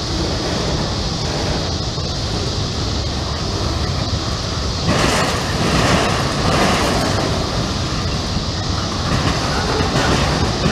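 Freight train of autorack cars rolling past, a steady rumble of steel wheels on the rails that grows louder for about two seconds about halfway through.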